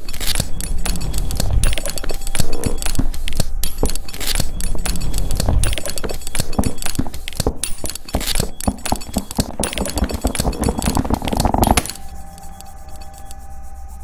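A rhythmic piece built from recorded bag-making sounds: a dense, fast run of clicks and taps over low thuds. About twelve seconds in, it drops to a quieter, steady held tone.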